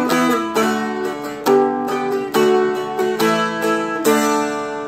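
Seagull Merlin M4, a four-string dulcimer-style strumstick, strummed through a walk-up from an E chord. Picked chords come about two or three a second, stepping in pitch, and the last one, about a second before the end, is left to ring.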